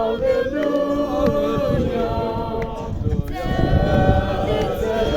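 A group of voices singing together unaccompanied, in long held notes that overlap one another.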